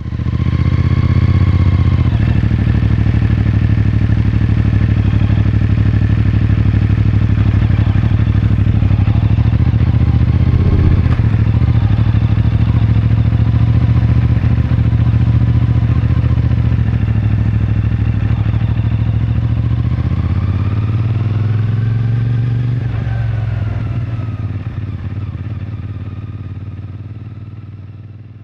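CFMoto 450MT's parallel-twin engine running at steady revs. About twenty seconds in, the pitch briefly rises and falls, and the sound then fades away.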